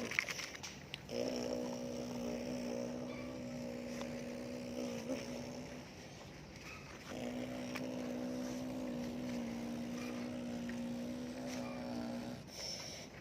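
Motor of a radio-controlled model excavator whining at a steady pitch. It runs for about four seconds, stops for about two, then runs again for about five. A few sharp clicks come near the start.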